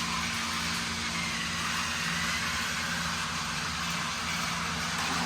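Plarail S-05 Hokuriku Shinkansen toy train's small battery-powered motor and plastic gearbox running, a steady whir with a low hum underneath.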